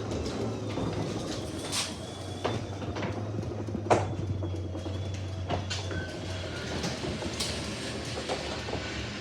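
Garage door opener motor running, with a steady hum, while the old sectional door rolls along its tracks, rattling and clicking, with a thin high squeal from the rollers or hardware. The hum weakens about six seconds in.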